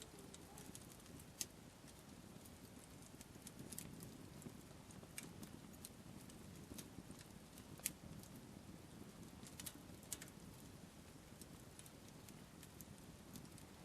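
Wood campfire crackling quietly: sharp, irregular pops and snaps over a faint low rush.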